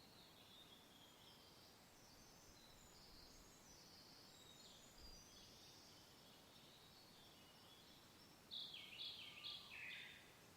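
Birds singing faintly over a soft, steady hiss of wind. Near the end one bird gives four louder short notes in quick succession, each falling in pitch.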